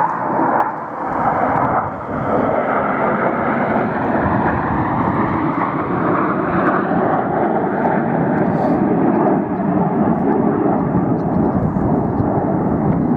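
Red Arrows BAE Hawk T1 jets flying past, a loud continuous jet roar.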